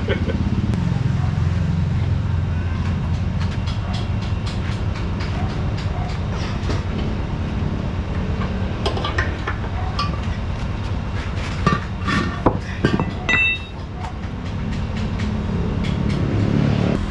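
A motor running steadily with a low hum, while metal tools clink and knock several times about halfway through, with a short high squeak among them.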